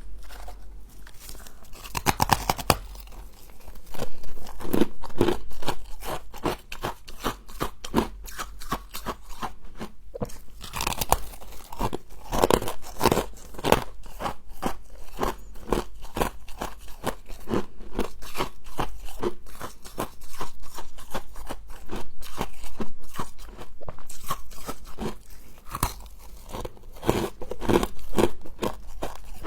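Close-miked biting and chewing of crunchy frost: a continuous run of crisp crunches, with louder clusters of bites every few seconds.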